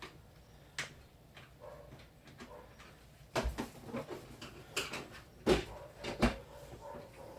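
Handling noise from an electronic keyboard being taken apart: scattered clicks and knocks of its casing and small parts, busier in the second half with three heavier knocks.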